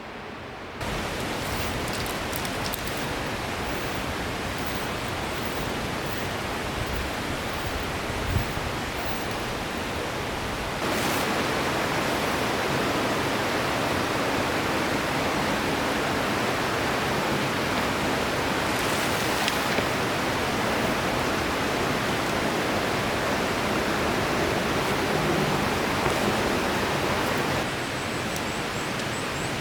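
A river rushing steadily. The water noise steps abruptly louder or softer about a second in, about eleven seconds in and near the end, as the shots change.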